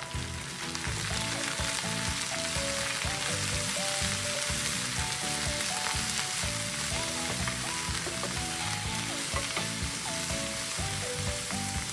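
Chopped amaranth leaves sizzling steadily in hot oil in a frying pan as they are stirred with a spatula, with background music of short melodic notes over a beat.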